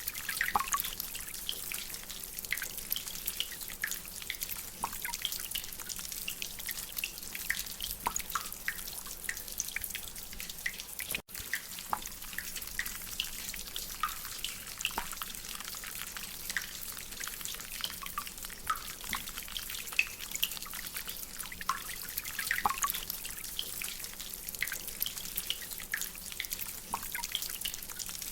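Rainwater dripping from a drainpipe: irregular drops over a steady hiss of rain. The sound cuts out for an instant about eleven seconds in.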